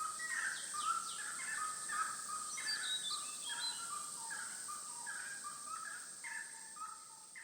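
Several birds calling in quick, overlapping short notes, over a steady high-pitched hiss; the sound fades out toward the end.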